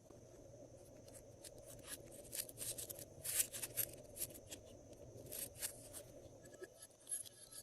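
Glossy slime worked by hand, giving quiet, irregular sticky clicks and crackles.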